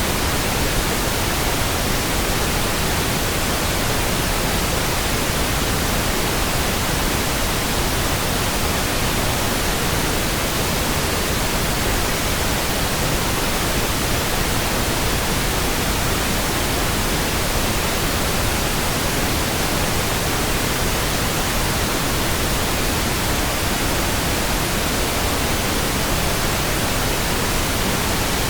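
Steady synthetic pink noise: an even, unchanging hiss spread across the whole range, with no breaks or events.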